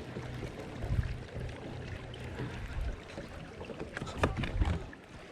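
Noise of a fishing boat on the water: a steady low rumble of wind and water, with a few short knocks on the boat, the last of them bunched about four seconds in.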